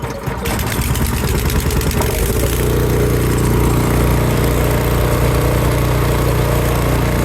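Toro Power Clear 721 RC snowblower's 212cc four-stroke engine running just after starting on its repaired recoil starter, uneven at first and settling into a steady run about two and a half seconds in.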